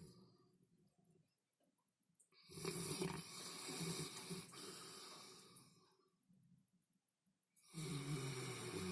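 Shepherd dog snoring in its sleep: a long snoring breath starts about two and a half seconds in and fades away over some three seconds, and another begins near the end.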